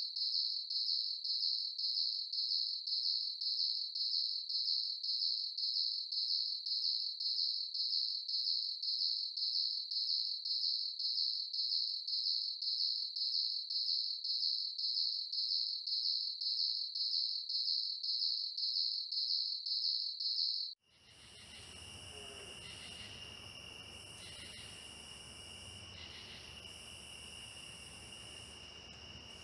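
Cricket chirping in a steady, even rhythm of about two to three high chirps a second. About 21 seconds in it cuts off abruptly and is replaced by a night insect chorus with a continuous high trill over a light hiss.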